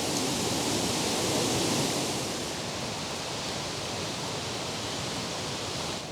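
Killen Falls waterfall: a steady rush of falling water, a little quieter after about two seconds.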